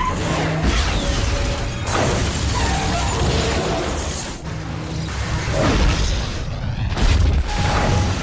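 Film action-scene soundtrack: a dense run of crashes and booms with sweeping whooshes, mixed with background music.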